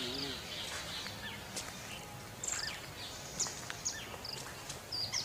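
Birds chirping and calling in short, scattered notes over a steady outdoor hiss.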